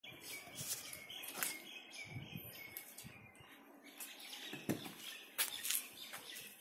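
Birds chirping with short, repeated high notes, over irregular light clicks and knocks.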